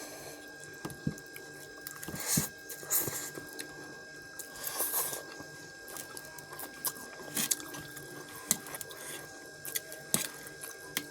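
Close-up eating sounds: wet chewing of cheesy instant noodles, with scattered small clicks and smacks.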